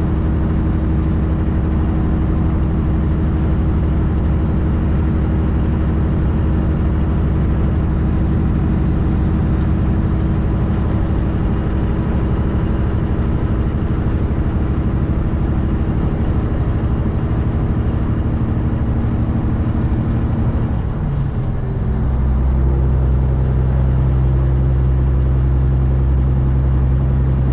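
Semi truck's diesel engine running steadily while driving, heard from inside the cab, with a faint high whine over it. About three-quarters of the way through, the sound dips briefly and the whine sags, then the engine comes back with a different, stronger low note, as at a gear change.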